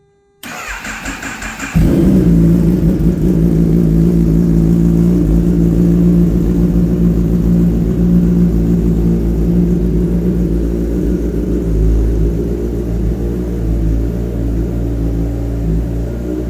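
Kawasaki ZX-10R inline-four with a Brock's CT megaphone exhaust cold-started after sitting about a month: the starter cranks for about a second, the engine catches and settles into a loud, steady idle.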